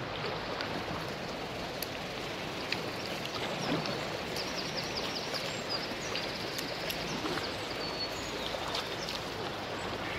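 River water rushing in a quick current: a steady, even hiss, with scattered small ticks and a run of short high chirps through the middle.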